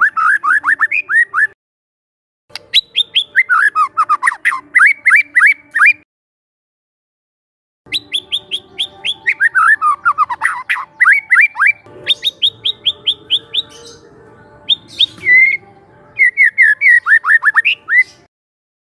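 Young white-rumped shama (murai batu) calling in rapid runs of short, sharp whistled notes, each sweeping downward, about eight a second. The runs come in three bursts, each broken off by a sudden silence.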